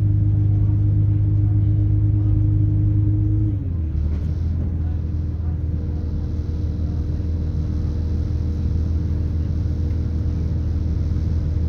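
Onboard a British Rail Class 170 Turbostar diesel multiple unit: the underfloor MTU turbo diesel engine running under power with a steady hum, its note dropping suddenly to a lower pitch about three and a half seconds in and then holding steady.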